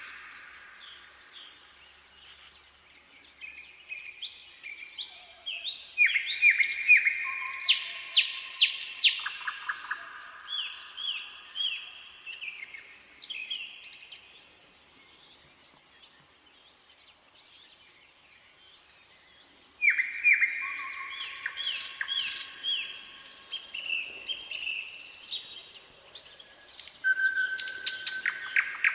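Nightingale singing: varied phrases of rapid repeated notes, trills and clear whistles, in two long bursts of song separated by short pauses.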